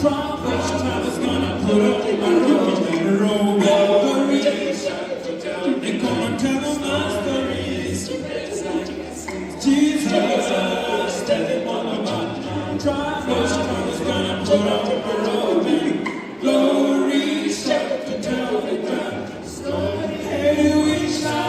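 A cappella vocal group singing a gospel song in close harmony, with no instruments and a low bass part under the upper voices.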